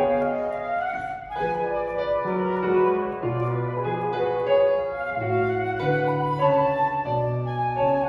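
Flute and piano playing classical music together: a flute melody over changing piano chords.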